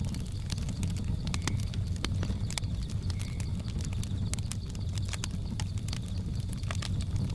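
Wood fire crackling, irregular sharp pops and snaps over a steady low rumble of the flames, with a faint steady high-pitched drone of jungle ambience underneath.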